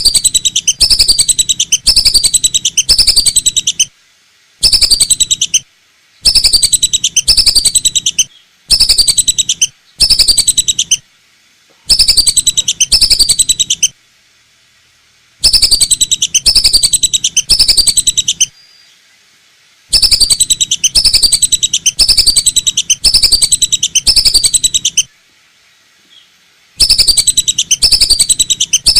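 Lesser whistling duck lure call: repeated falling whistled notes, about two a second, in runs of one to four seconds broken by short pauses, played very loud.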